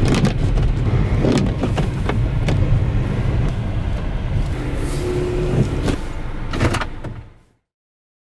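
Car noise: a steady low rumble with several knocks, cutting off suddenly about seven and a half seconds in.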